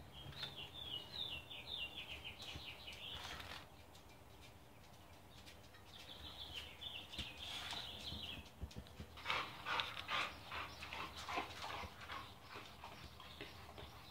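House finch singing twice in quick runs of high chirped notes that step down in pitch. In the last few seconds a dog breathes close by in quick, irregular puffs.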